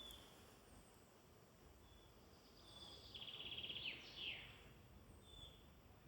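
Faint woodland birdsong: short high bird notes repeat every second or two, and about three seconds in a songbird sings a rapid trill that grows louder and ends in a falling sweep, followed by another falling note.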